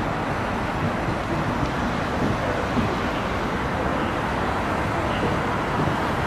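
Steady rumbling noise of a train at a railway station platform, even in level with no distinct knocks or tones.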